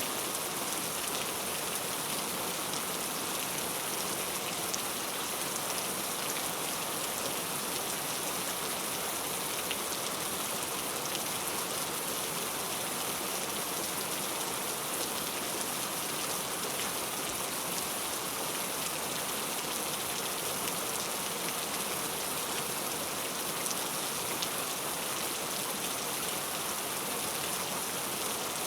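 Steady heavy rain falling, an even hiss of drops with no let-up.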